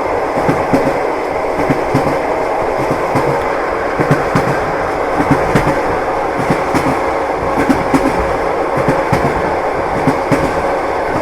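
A train running, with a steady rumble and the clickety-clack of its wheels knocking over rail joints at irregular intervals. A faint steady hum runs underneath.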